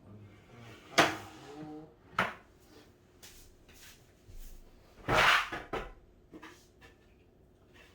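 Parts of a cat tower being handled during assembly: a few sharp knocks, then a louder, longer clatter about five seconds in, with small clicks in between.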